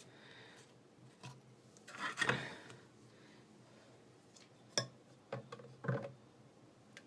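A steel knife and water stone being handled between sharpening strokes: a brief scrape of blade on stone about two seconds in, then a few light knocks and clicks.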